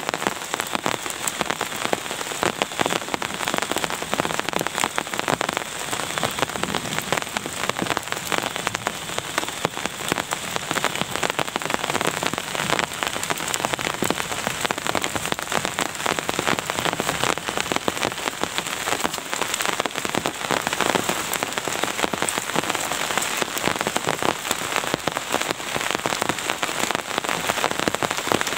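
Steady rain with many close drops striking a surface, a dense, even stream of small ticks.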